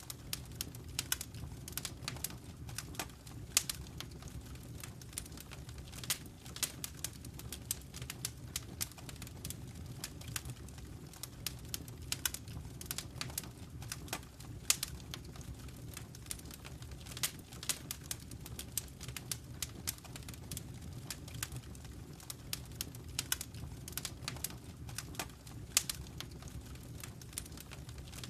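Fireplace wood fire crackling, with frequent irregular sharp pops, some louder than others, over a low steady rumble of the burning fire.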